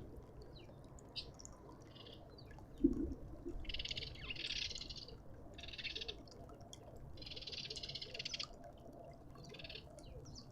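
Birds calling in a string of harsh, buzzy chattering bursts, some half a second and one over a second long. There is a single sharp knock about three seconds in.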